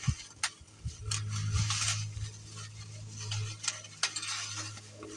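Small plastic and metal parts being handled: a few sharp clicks and clinks with a brief rustle of packaging, as motorcycle turn-signal blinkers are taken out and turned over. A steady low hum comes in about a second in.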